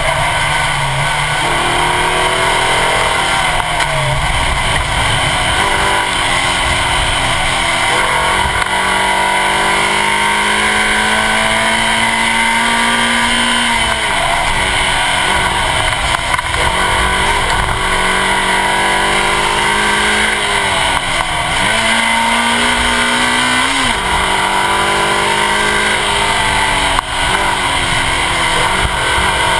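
Suzuki Swift Sport rally car's four-cylinder engine driven hard through the gears: its pitch climbs slowly, then drops sharply at each upshift, several times. Heavy wind and tyre noise from the bumper-mounted camera lies loud under it.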